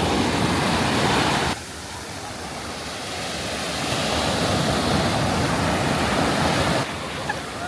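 Ocean surf breaking and washing on a beach: a steady rushing noise with some wind on the microphone. It drops abruptly about a second and a half in, then swells again, and changes abruptly once more near the end.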